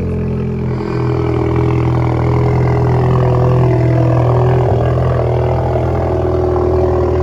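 Alfa Romeo Giulia with its muffler and resonator deleted, the engine running steadily through the open exhaust with a low drone. The level rises slightly about a second in.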